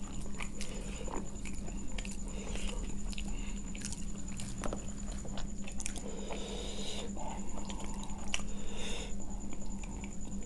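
Close-miked eating sounds of paneer butter masala with gravy: wet chewing with irregular mouth clicks and smacks.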